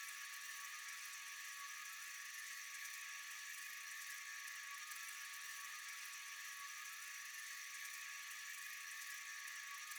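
Faint night-time insect chorus: a steady, unbroken high-pitched hiss of many insects, with a few held tones in it.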